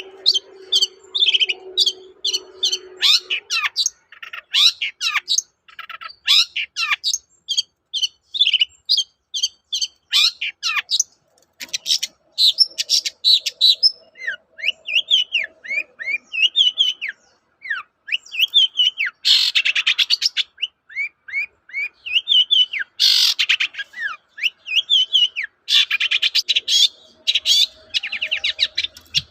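Long-tailed shrike singing in full voice: a fast, unbroken run of varied chirps and sweeping whistled notes, broken three times by harsh rasping bursts.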